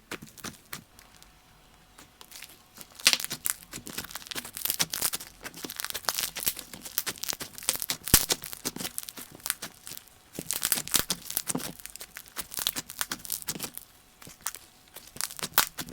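Clay slime being kneaded and stretched by hand, giving dense runs of soft crackling, tearing and squishing clicks that come in bursts, quieter for the first few seconds.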